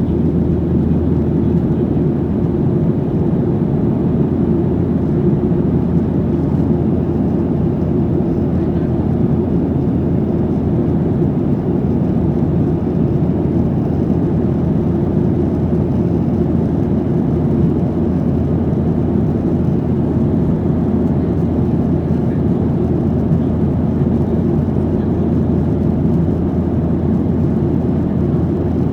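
Steady drone of a Boeing 737-800's CFM56-7B turbofan engines and airflow, heard inside the passenger cabin from a rear window seat while the jet climbs out. The noise is low and even, with no changes in pitch or level.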